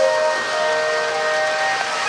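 A tinny tune with held notes playing from the sound boxcar of a running Lionel O gauge train, over a steady hiss of the train's wheels on the three-rail track.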